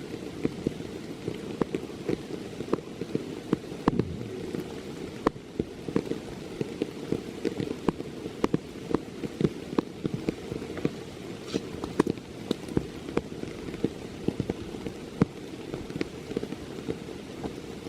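Steady rain, with many irregular raindrops tapping sharply close to the microphone over a constant low hiss.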